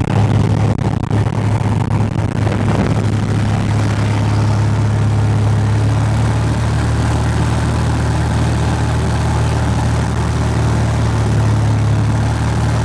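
Cessna 172's piston engine and propeller running at full throttle for a static RPM check during a ground run-up. It settles after the first couple of seconds into a steady, even run at about 2300 RPM.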